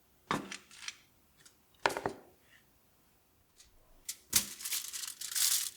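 A plastic bag of frozen pilaf being opened. There are two sharp snips a second and a half apart, then a knock about four seconds in, followed by a stretch of crinkling plastic.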